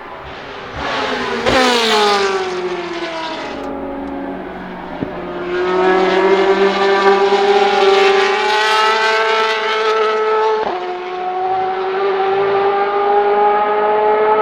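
Ferrari 458 Italia GT2's naturally aspirated 4.5-litre V8 race engine: a car passes with a sharply falling pitch about a second and a half in, then an engine pulls hard at high revs with its pitch climbing steadily, broken by a quick upshift about eleven seconds in before it climbs again.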